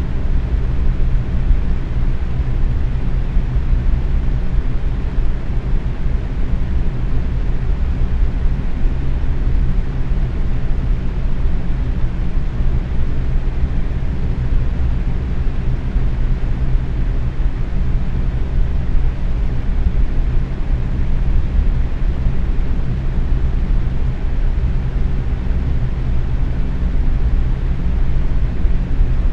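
Box fan running steadily at medium speed: an even airy whoosh with a low hum under it.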